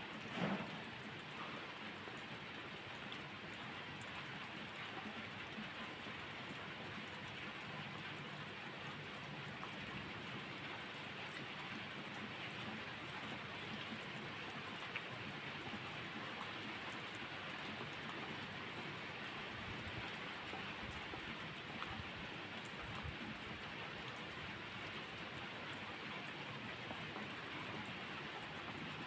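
Steady, even rainfall. A short, louder low thump comes about half a second in.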